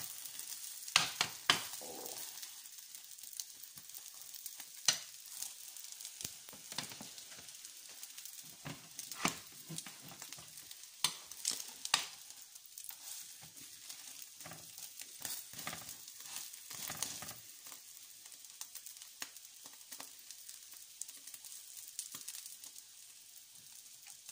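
Egg-soaked bread slices sizzling in hot oil in a frying pan, a steady high hiss. A metal fork taps and scrapes against the pan many times, loudest in the first half.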